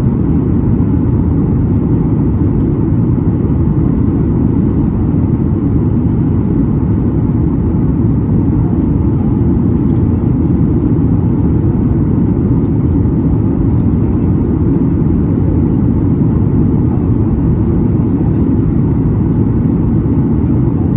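Steady low rumble of cabin noise inside a Boeing 737 MAX 9 in flight: airflow over the fuselage and the drone of its CFM LEAP-1B engines, holding even throughout.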